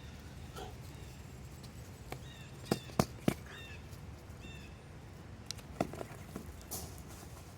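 Wind rumbling steadily on the microphone. Three sharp knocks come close together about three seconds in, with another near six seconds, and several short high chirps sound between them.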